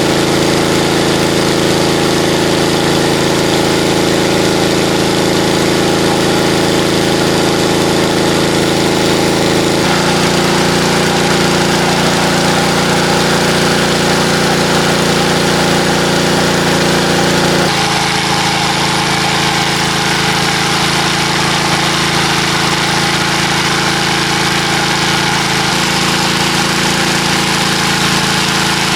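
A small engine running steadily at idle. Its tone shifts abruptly about ten seconds in and again near eighteen seconds.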